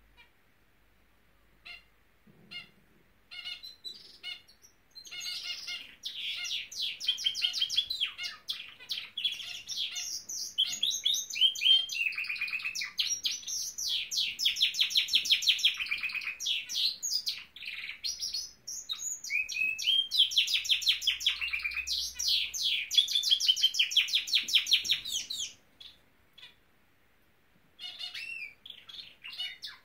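Norwich canary singing: a few scattered chirps, then long phrases of rapid trills with brief breaks, a pause near the end, and the song starting up again.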